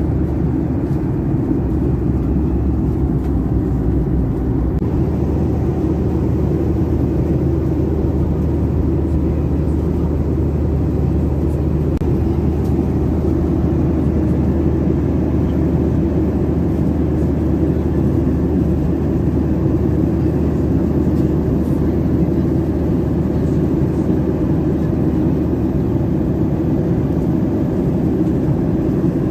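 Steady cabin drone of a Boeing 737-800 with CFM56 engines, an even, unchanging low rumble and hum heard from inside the passenger cabin.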